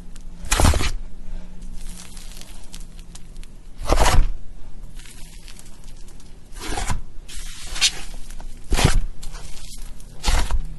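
Slime being worked by hand: a soft continuous crackling, broken by about six louder squishy crackles as it is pressed and pulled.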